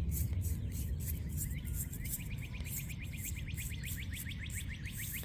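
Toothbrush bristles scrubbing a wet eastern box turtle's shell, a rhythmic rasping of about four to five strokes a second. From about two seconds in, a fast, even trill of chirps runs alongside.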